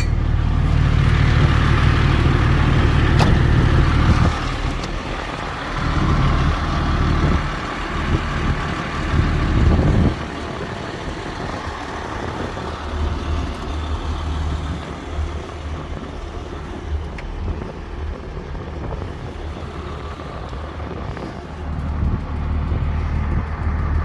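Dennis Rapier fire truck's diesel engine running, with a steady low drone, louder in the first few seconds and again around ten seconds in, quieter in between.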